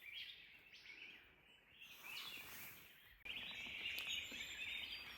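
Forest ambience with wild birds chirping. About three seconds in, a denser, busier chirping chorus starts abruptly.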